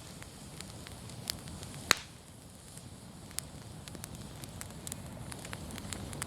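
Open fire of wood and fallen leaves crackling, with scattered sharp pops over a low steady rustle; the loudest pop comes about two seconds in.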